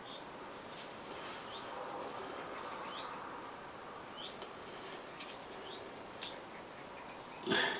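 Small bird chirping, short rising notes repeating about once a second, with a few light clicks and one sharp knock near the end.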